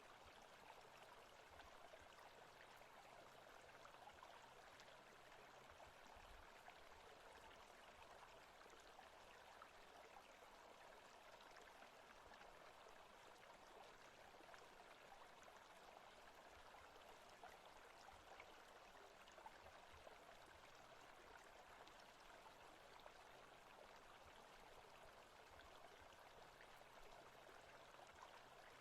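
Faint, steady forest-sounds ambience of running water, like a stream, with a few faint ticks now and then.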